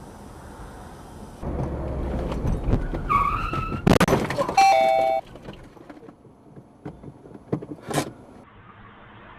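Road and engine noise in traffic, with a short horn-like tone just after 3 s, a loud sudden noise around 4 s, and a two-note car horn blast just after. Scattered clicks and a short burst near 8 s follow as it quietens.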